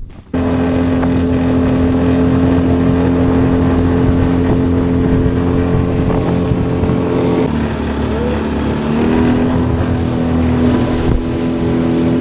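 Engine running steadily at speed. About seven seconds in its pitch drops, then climbs back up over a second or so and holds steady again.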